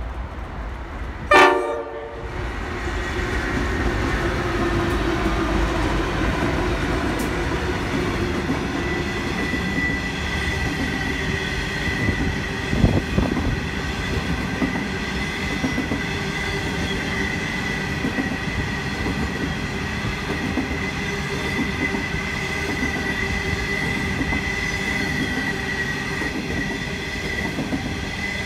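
Freight train CA07, led by CEY-class locomotives: a short horn blast about a second in, then the train rolling past with a steady rumble and a persistent high squeal from the wheels. A louder clatter comes about halfway through.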